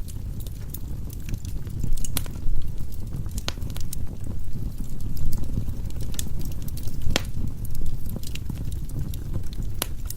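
Firewood burning in a fireplace: a steady low rumble of the flames with scattered crackles and pops, a few louder snaps at about 2, 3.5, 7 and 10 seconds.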